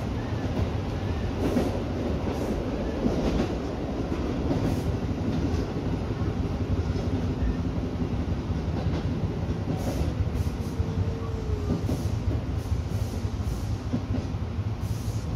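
Tobu Urban Park Line electric train heard from inside at the front, running and pulling into a station: a steady rumble of wheels on rail with scattered clicks as the wheels cross joints and points, and a brief faint squeal about two-thirds of the way in.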